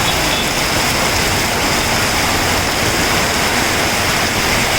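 Heavy rain pouring down in a loud, steady hiss of water.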